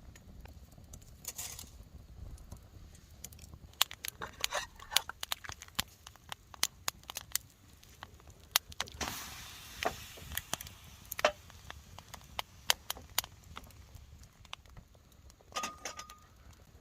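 Wood campfire crackling, with many irregular sharp pops and snaps through the middle of the stretch.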